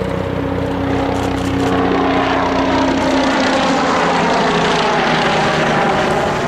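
An aircraft passing close. A low, steady engine hum fades about three seconds in while a broad rushing noise builds up, then drops off suddenly at the very end.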